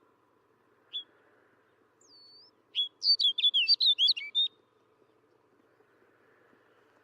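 Snow bunting singing: a single short high note, a thin slurred whistle, then one quick warbling song phrase of rapid high notes lasting about a second and a half.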